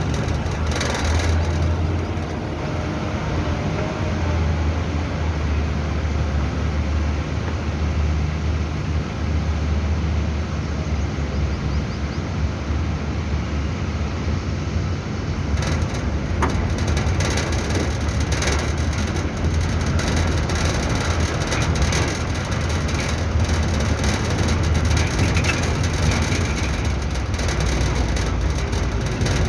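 Tata truck's diesel engine running with a steady low rumble. From about halfway, rattling and clatter come in over it.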